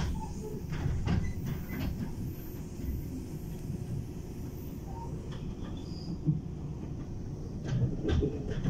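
Train running: a steady low rumble with scattered clicks and knocks, which come thicker near the end.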